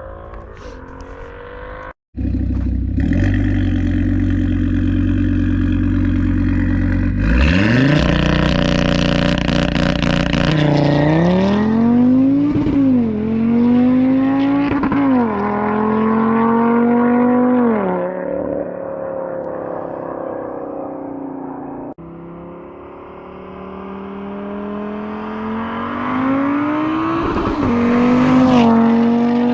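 Audi RS3's turbocharged five-cylinder engine, breathing through a full 3.5-inch custom downpipe and AWE SwitchPath exhaust. It is held at steady raised revs for a launch, then pulls hard: the pitch climbs and drops at each upshift, about three times, and then fades as the car moves away. After a cut, it is heard again, rising and getting louder as it accelerates toward the microphone.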